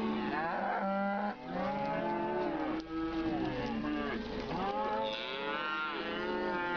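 Several cattle mooing at once, close by, their calls overlapping without a break, some long and bending up and down in pitch.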